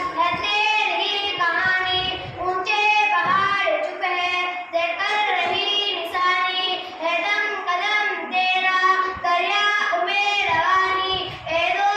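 A child singing in a high voice, unaccompanied, in long held and gliding phrases with brief pauses for breath.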